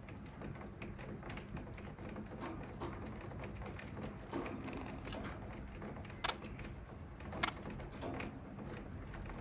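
Bengalese finches moving about their cage: scattered light clicks and taps, with two sharper clicks about two-thirds of the way in, over a steady low rumble.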